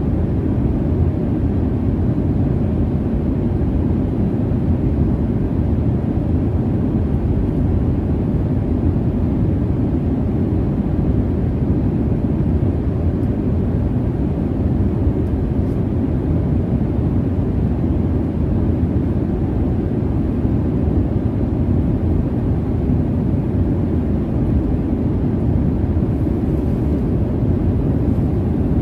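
Steady low rumble of a jet airliner's cabin in cruise: engine and airflow noise, even and unchanging, heaviest in the low end.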